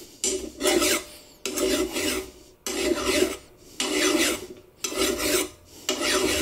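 Hand file rasping across a sheared-off steel exhaust manifold stud, filing it flat: about six separate forward strokes, roughly one a second, with a short gap between each as the file is lifted on the return.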